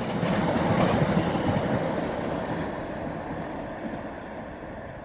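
Irish Rail InterCity Railcar (diesel multiple unit) running past close by on the rails. The sound is loudest about a second in, then fades steadily as the train moves away.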